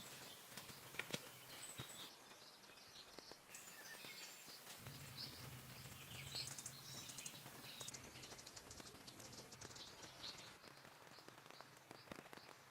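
Faint outdoor ambience with birds chirping intermittently and a few small clicks and ticks.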